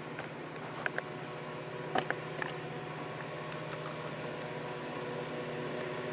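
Railway locomotive running with a steady low hum, with a few sharp metallic clicks about one and two seconds in.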